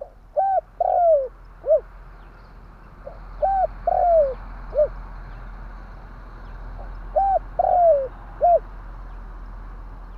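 Spotted dove (tekukur) cooing: three calls, each of three notes, a short coo, a longer falling coo and a short coo, repeated about every three and a half seconds over a faint steady hiss.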